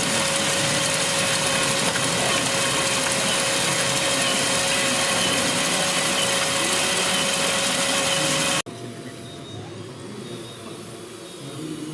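A small motor running steadily with a constant whine over a wide hiss, cutting off abruptly about two-thirds of the way through and leaving a much quieter background.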